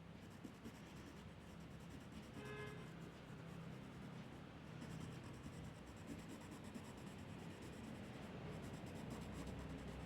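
Faint steady scratching and rubbing of a drawing tool on paper as strokes are laid down.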